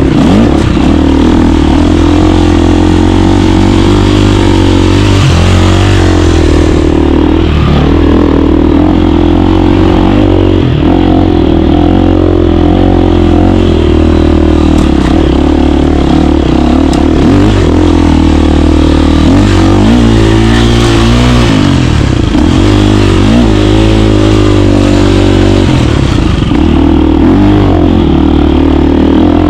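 KTM 350 dirt bike's single-cylinder four-stroke engine running loudly while riding, its pitch rising and falling a few times with the throttle.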